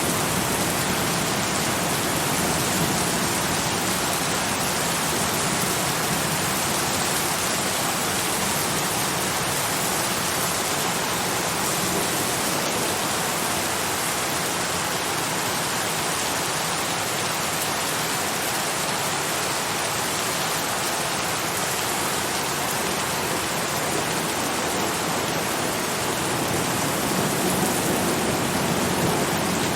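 Steady, continuous rain falling, an even hiss.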